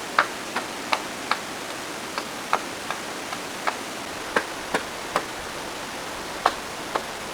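Irregular sharp clicks or taps, one to three a second, over a steady rushing noise like running water or rain.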